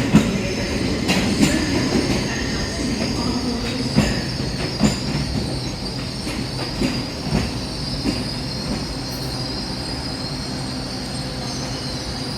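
Train moving through the station, its wheels giving a steady high-pitched squeal against the rails over a low rumble. Clicks from wheels passing rail joints come often at first and thin out after the middle.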